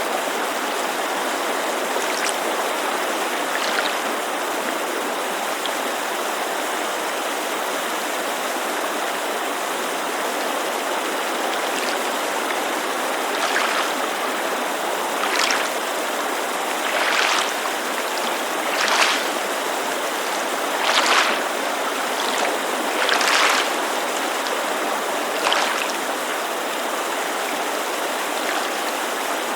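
Steady rushing white noise of a mountain creek, with lake water lapping against the shore on top. The lapping comes as short splashes roughly every two seconds in the second half.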